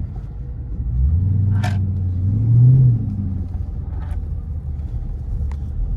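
Mopar R/T's 5.7-litre HEMI V8 accelerating with the windows down: the engine note swells from about a second in, climbs a little in pitch to its loudest near the three-second mark, then eases off to a steadier cruise.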